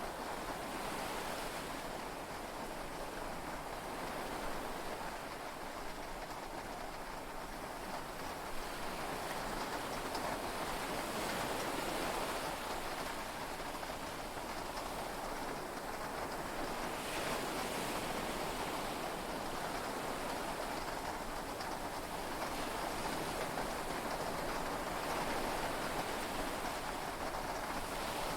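Heavy rain heard from inside a yacht cabin, a steady dense hiss that swells and eases gently every few seconds, with sea waves blended into it.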